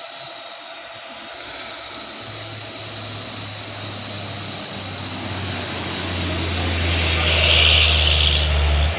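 A heavy truck's engine running as it approaches, its low hum growing steadily louder. A hiss rises with it near the end.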